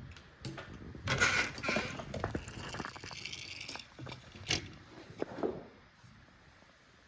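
Handling noise from a die-cast model plane and its packaging: rustling and scraping for a few seconds, then scattered clicks and taps, one sharper click about four and a half seconds in.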